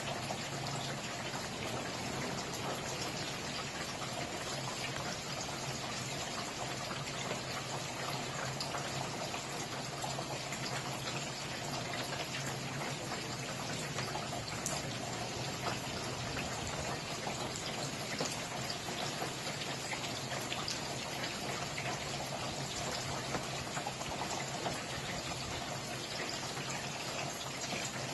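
Steady rain, a dense even hiss of falling drops with fine individual drop ticks throughout.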